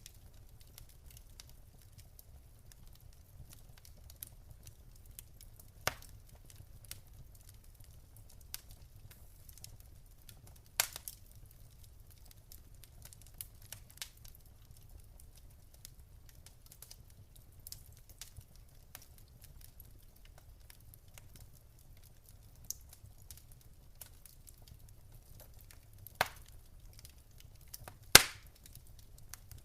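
Wood fire burning in a fireplace: a low steady rumble with scattered small crackles and a few sharp pops, the loudest near the end.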